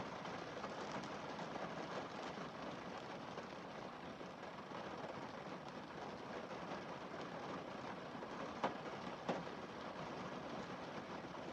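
Rain falling steadily on a car windscreen, an even patter, with two sharp drop taps louder than the rest, about half a second apart, near the end.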